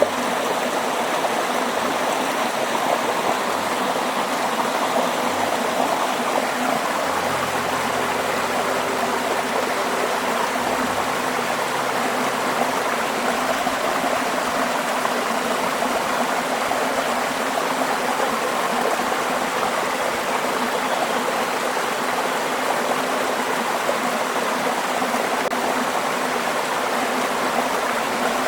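Steady rush of running water, like a stream flowing over rocks.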